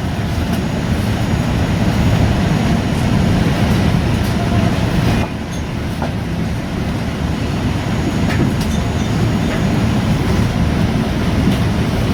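Steady low rumble of a Boeing 787 airliner cabin: the hum of the aircraft's engines and air systems, with a short break about five seconds in.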